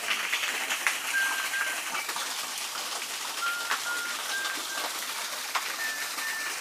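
Forest bird calling in short, level whistled notes, mostly in pairs, repeated every second or so, over the steady hiss of a thin waterfall trickling down rock.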